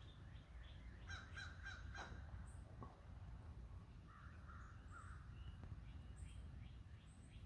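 Quiet outdoor background with faint, distant bird calls: a quick run of harsh calls about a second in, another call around the middle, and scattered high chirps.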